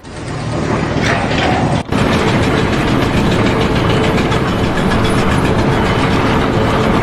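Machinery running with a steady, fast mechanical rattle, cut off briefly about two seconds in.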